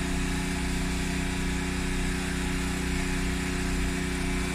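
Samsung refrigerator running with its back panel off: a steady machine hum with a faint high-pitched whine.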